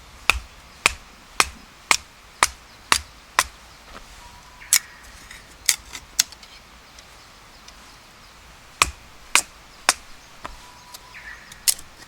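A blade chopping: a run of seven sharp strikes about two a second, then a few more spaced strikes with longer pauses between them.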